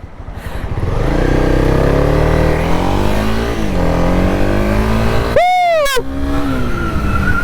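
Honda CB300R's 286cc single-cylinder four-stroke engine revving hard under a full-throttle launch from first gear. Its pitch climbs, dips at an upshift about three and a half seconds in, then climbs again. A short high-pitched squeal cuts across about five and a half seconds in.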